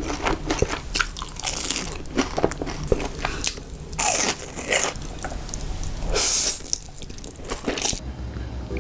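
A person eating close to the microphone: bites and chewing with many sharp, crisp crunches, and two longer noisy stretches about four and six seconds in.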